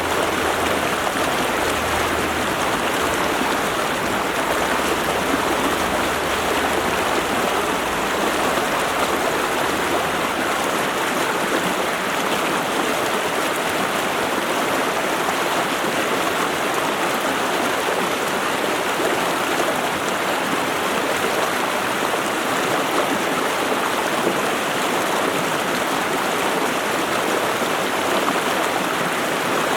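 Stream water running, a steady, unbroken rushing.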